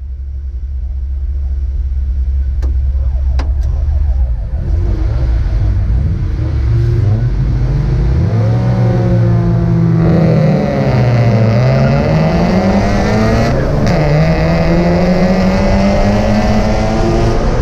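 Mazda MX-5 race car engine heard from the cockpit: a low idle at first, then revving and pulling away with pitch climbing through the gears. Other cars' engines rise and fall around it.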